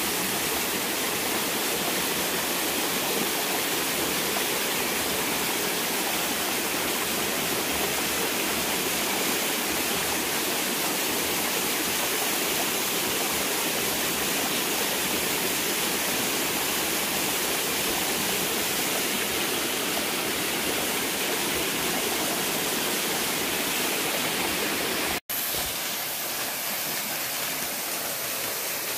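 Water pouring down a small waterfall, a steady rushing noise. It breaks off for a split second near the end and resumes slightly quieter.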